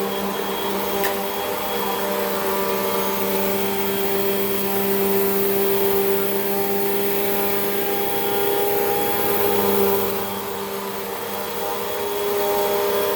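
Hoover WindTunnel 2 Rewind bagless upright vacuum running steadily on carpet, a steady motor whine over a rushing hiss. It grows a little quieter for a couple of seconds about ten seconds in.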